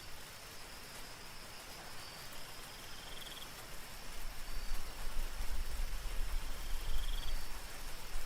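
Night insect chorus over gentle rain: a steady high cricket drone, with a short pulsed chirp about every four seconds, over a soft hiss of rain. About halfway through, a deep low rumble joins and the sound grows louder.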